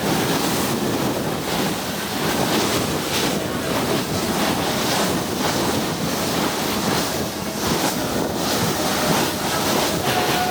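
Wind buffeting the microphone over the rush and splash of choppy sea water against a fast-moving boat's hull, a steady loud noise with gusty swells.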